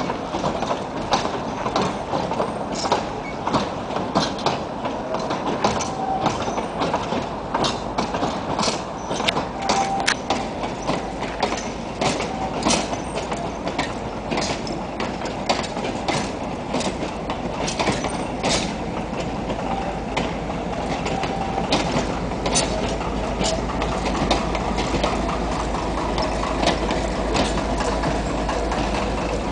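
Narrow-gauge train rolling slowly past, its carriage wheels clicking irregularly over the rail joints. The low drone of its diesel locomotive grows through the second half as the locomotive comes alongside.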